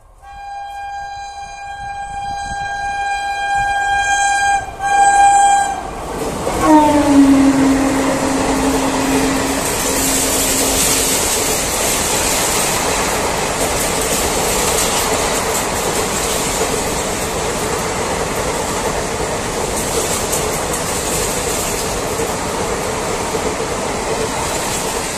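Indian Railways express train sounding a long horn blast on its approach, with a brief break near the end of it. About six seconds in, a tone falls sharply in pitch as the locomotive passes. A steady loud rush and rattle of coaches going through the station at speed follows.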